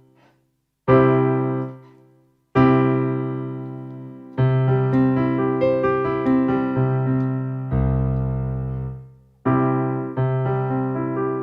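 Casio AiX keyboard's digital Stage Piano tone playing struck chords that ring and die away, each about a second and a half apart. These are followed by a busier run of notes, a single low bass note about eight seconds in, and more chords with quicker notes near the end.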